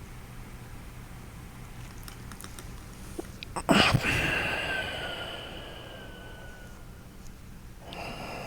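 Noisy breathing through the nose: a sudden sharp nasal breath about halfway through, trailing into a long breath with a faint whistle that slowly falls in pitch and fades. Another breath starts near the end.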